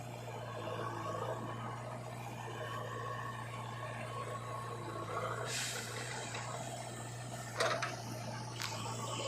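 Heavy machine's diesel engine running steadily, with a sharp clank about seven and a half seconds in.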